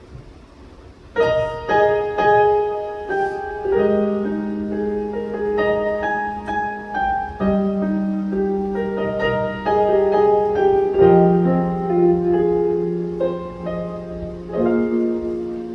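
Piano playing a slow, gentle song introduction. It begins about a second in, with chords and single notes over low notes held for several seconds at a time, and softens near the end.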